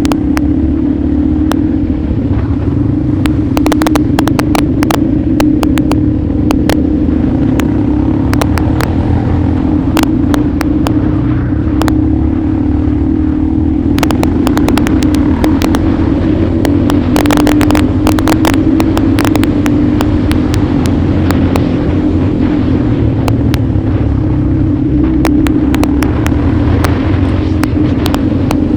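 Motorcycle engine running at a steady, held pitch while riding, with many sharp clicks and knocks scattered throughout.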